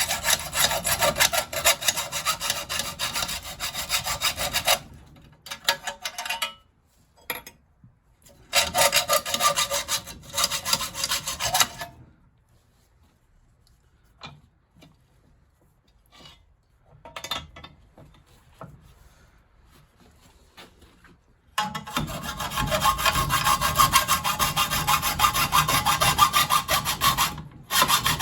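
Hand saw, most likely a hacksaw, rasping through metal fittings in stretches of a few seconds of steady strokes, with a long pause in the middle broken by a few light knocks.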